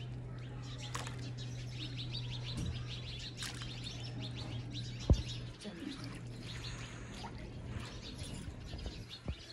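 Small birds chirping rapidly and repeatedly, over a steady low hum, with one sharp knock about five seconds in.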